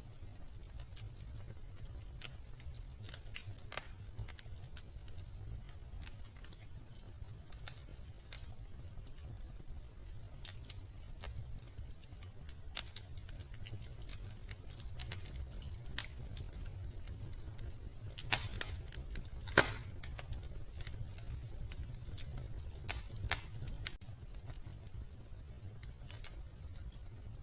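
Wood fire in a fireplace crackling: scattered sharp pops and snaps over a low steady rumble, with a cluster of louder pops about two-thirds of the way through.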